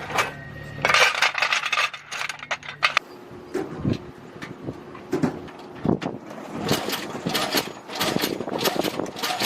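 Irregular metallic clicks, clanks and rattles of ordnance being handled and loaded onto an attack helicopter. A steady machine hum runs underneath for the first three seconds, then stops.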